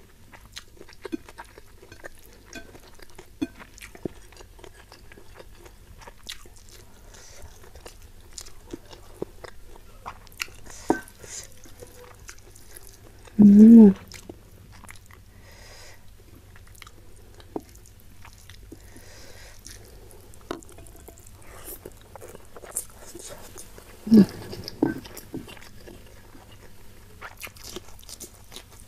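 Close-miked eating of spicy stir-fried salted fish and rice by hand: soft chewing, wet mouth clicks and small crunches. A short voiced sound from the eater's throat about halfway through is the loudest thing, with two shorter ones near the end.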